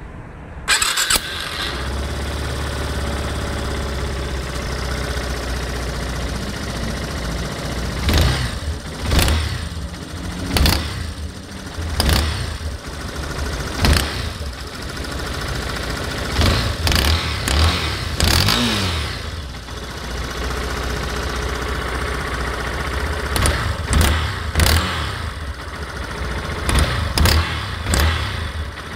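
Yamaha Fazer 250 single-cylinder engine starting about a second in, idling, then revved in a series of short throttle blips. The owner hears an abnormal noise, snapping pops as if the engine were about to burst, loudest on a cold start and under throttle; its cause is unknown to him.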